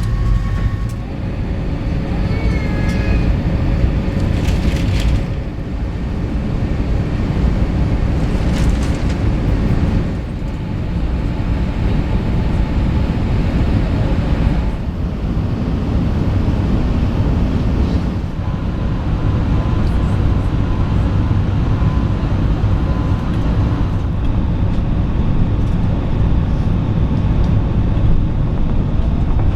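Steady low rumble inside the cabin of an Airbus A380 as it rolls on the ground with its engines running.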